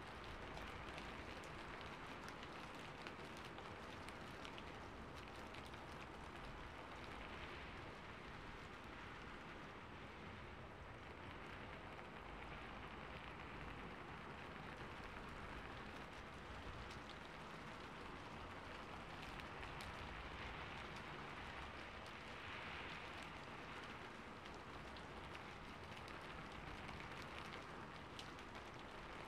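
Steady rainfall: an even, unbroken hiss with many small drop ticks through it.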